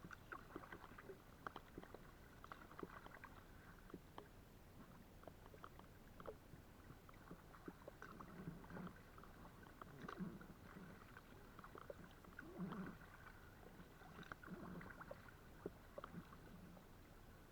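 Faint kayak paddling: water dripping and trickling off the paddle, with a soft swish of a paddle stroke about every two seconds.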